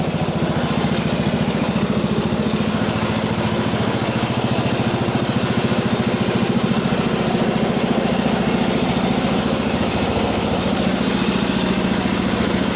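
Cub Cadet 80 garden tractor's single-cylinder engine running steadily at idle, with an even, regular firing beat.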